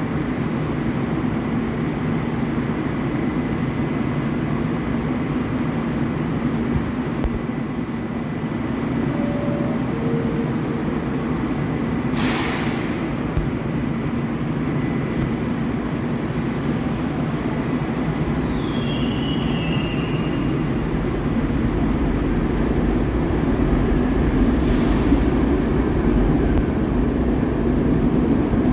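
New York City subway train running on the track with a steady rumble. Brief high wheel squeals come about two-thirds of the way through, and two short sharp noises about 12 and 25 seconds in.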